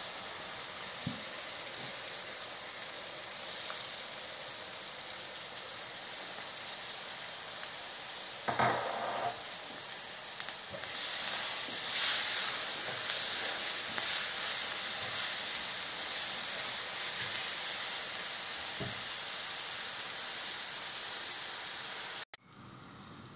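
Onion and tomato-puree masala sizzling as it fries in oil in a pan, louder from about halfway. It is being fried until the oil separates.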